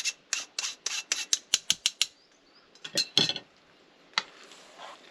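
A utensil stirring courgette fritter batter in a bowl, clinking quickly against the bowl at about five strokes a second, then a couple of separate knocks and a last tap.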